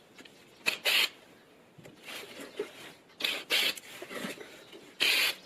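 Screws being turned out of a plastic battery case: short rasping bursts, mostly in pairs, a few seconds apart.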